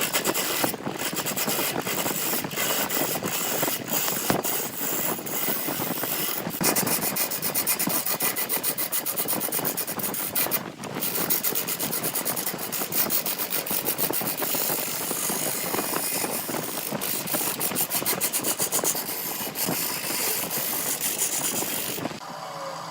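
Wood being cut or shaped with a tool: a continuous rasping, scraping noise with a fine rapid ticking in it, which stops about 22 seconds in.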